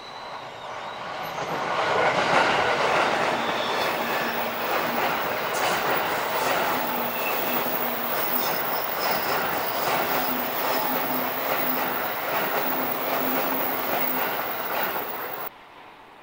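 A JR Sobu Line train passing through a tight S-curve: the sound of its wheels on the rails swells over the first two seconds and then stays steady, with thin squealing tones coming and going. It cuts off suddenly near the end.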